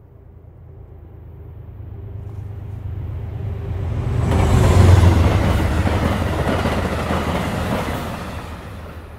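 Amtrak passenger train passing close by: a rumble and the rush of wheels on rails that build up, peak about five seconds in as the train goes past, then fade away.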